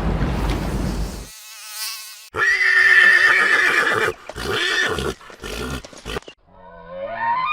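A horse whinnying: a quavering call swells into a loud, high neigh about two seconds in, then trails off in shorter broken calls. It is preceded by a steady rushing noise, and near the end a new rising call begins.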